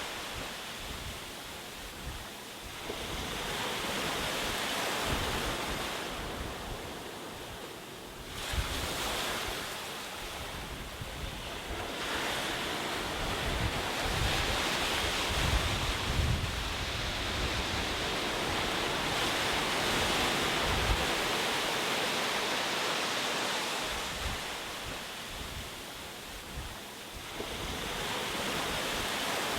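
Ocean surf: waves breaking and washing in, the rush swelling and easing every several seconds, loudest through the middle of the stretch.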